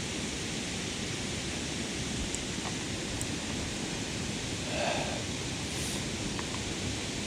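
Steady rushing outdoor background noise, with a few faint clicks and a soft swell about five seconds in.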